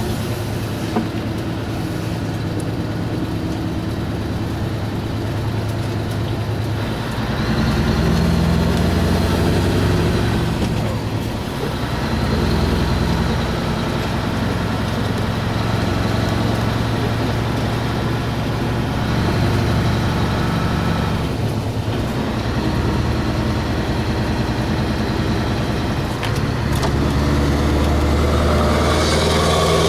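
Scania 4-series truck's V8 diesel engine running, its speed and pitch shifting up and down every few seconds and rising near the end.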